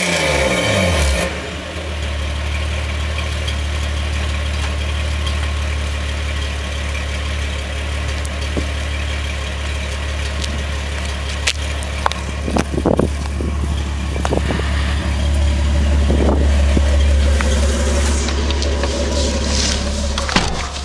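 A 1984 Toyota Supra's 5M-GE inline-six, breathing through a Thrush welded muffler with no catalytic converter, heard from inside the cabin. A rev falls away about a second in, and the engine then idles with a steady deep drone. A few short clicks come around the middle.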